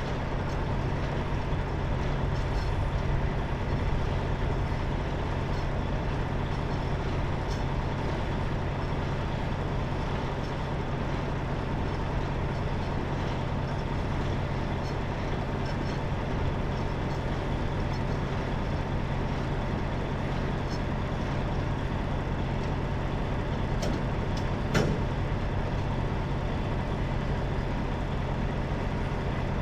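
Semi truck's diesel engine running steadily with a low hum, and a single sharp click about 25 seconds in.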